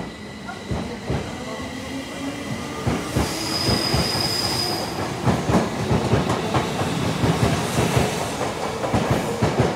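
Tokyo Metro 05 series electric train pulling away from a platform: its motor hum rises in pitch as it starts, and the wheel knocks over the rail joints come faster as it gathers speed. A brief high-pitched squeal sounds about three seconds in.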